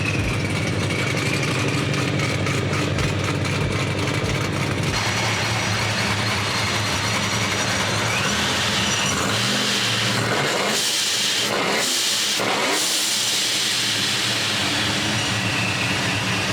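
Cammed, chopped-cam LS V8 engine idling lopey and loud, with revving a little past the middle.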